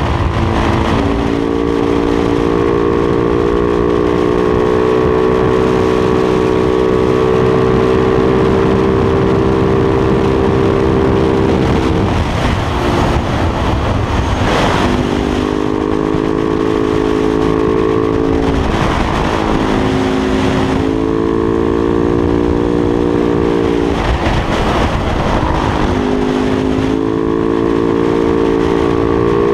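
Supermoto motorcycle engine on the road, holding a steady pitch that creeps up under throttle, with wind rush. It drops off the throttle about twelve seconds in, again briefly twice a few seconds later, and for a couple of seconds near the end, pulling again after each.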